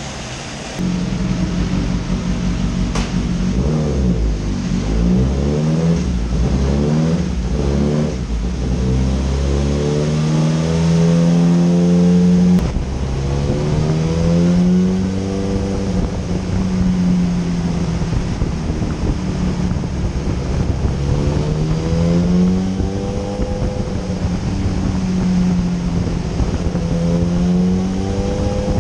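Suzuki GSX-S1000's inline-four engine running, with the revs jumping up about a second in and then rising and falling in repeated slow swells as the throttle is rolled on and off. The revs change smoothly with no fuel-cut jerk: the throttle position sensor has been reset to cure the on/off throttle effect.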